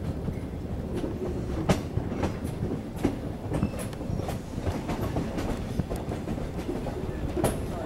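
Railroad car rolling along the track: a steady low rumble of the wheels on the rails, broken by frequent sharp, irregular clicks and knocks.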